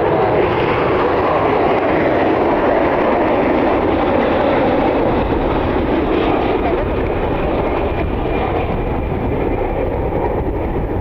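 Jet airliner engines roaring steadily, easing off a little over the last few seconds.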